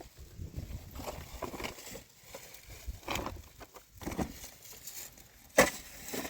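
Scattered light knocks and scuffs, with one sharp, loud knock near the end.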